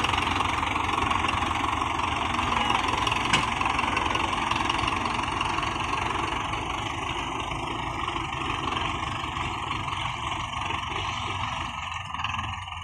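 Belarus diesel tractor engines running steadily under load in a tractor pull, with one sharp knock about three seconds in; the sound eases a little near the end.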